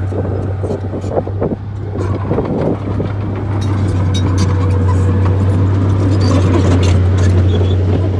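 A bulldozer's diesel engine running under load with a steady low drone, over irregular clanking and crunching from the tracks and the soil being pushed. The engine gets a little louder about halfway through.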